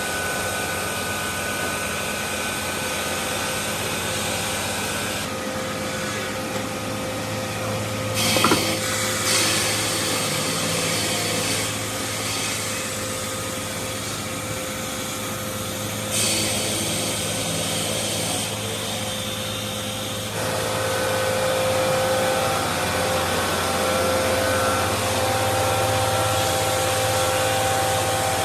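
Stone-processing machinery running: a steady mechanical hum with a thin whine over it, and one sharp knock about eight seconds in. The machine noise changes abruptly several times and gets louder for the last third.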